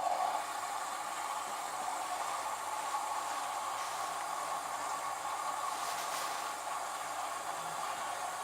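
LG F1222TD washing machine's water inlet valve opening abruptly and water rushing steadily into the drum during the prewash fill, a steady hiss.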